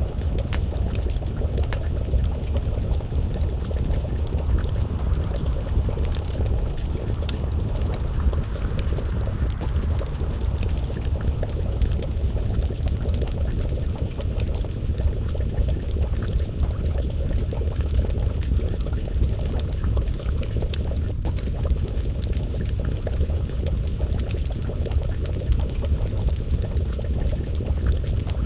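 Wood fire crackling with frequent small pops, over a steady low rumble and the bubbling of a pot of stew simmering over the flames.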